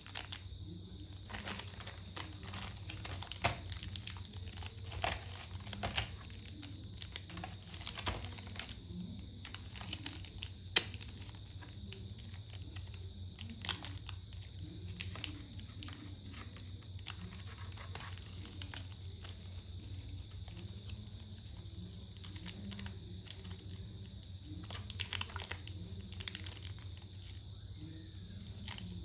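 Wrappers of small individually wrapped chocolates crinkling and tearing as they are opened by hand, in scattered sharp crackles over a steady low hum.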